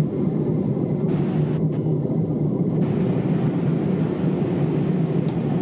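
Steady low rumble inside the cabin of a Boeing 787-8 airliner in flight: engine and airflow noise, even and unchanging.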